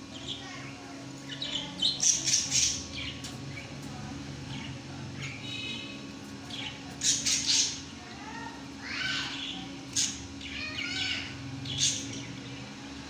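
Budgerigar chirping, chattering and squawking in short bursts, with the loudest squawks about two seconds in and around seven seconds in.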